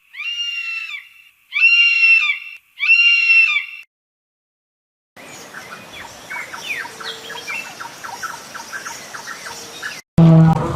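Three short, high-pitched animal calls about a second apart, then after a pause a chorus of many short bird chirps.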